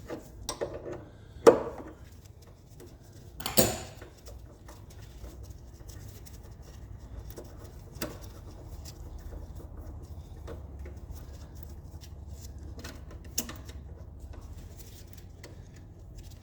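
Metal hand tools clinking and knocking on fuel pipe fittings as a fuel line union is undone. There are two sharp knocks in the first four seconds, then scattered lighter clicks.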